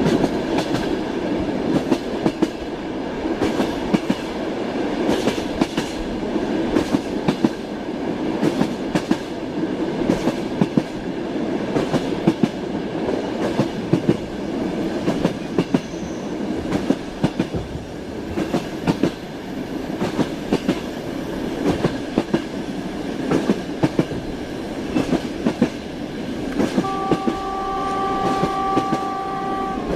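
Moving passenger train heard from inside a sleeping compartment: a steady rumble with the regular clickety-clack of the carriage wheels over rail joints. Near the end a train horn sounds one steady note for about three seconds.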